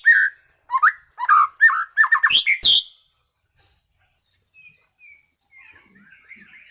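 White-rumped shama (Medan murai batu) singing: a quick run of loud whistled and harsh phrases for about three seconds, then only faint soft twittering.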